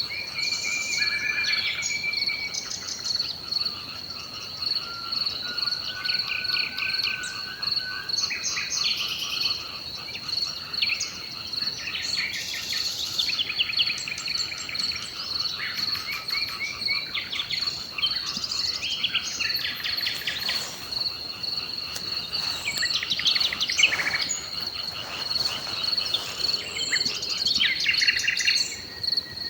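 Several birds singing in overlapping, varied phrases over a steady, high-pitched pulsing trill of crickets.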